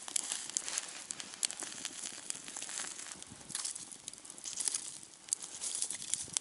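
Campfire of damp wood crackling and popping, with irregular sharp snaps over a steady hiss.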